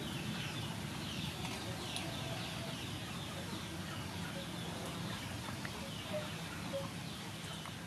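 Birds chirping and calling outdoors: many short, high chirps over a steady background hiss.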